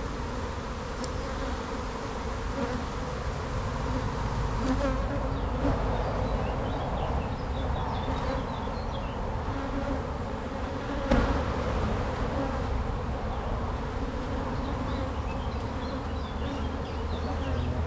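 Honeybee colony buzzing steadily around an opened hive. A single sharp knock comes about eleven seconds in.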